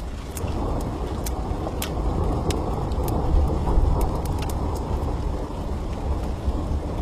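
Thunder rumbling, swelling to its loudest midway and slowly rolling off, over the crackle of a wood fire with sharp pops.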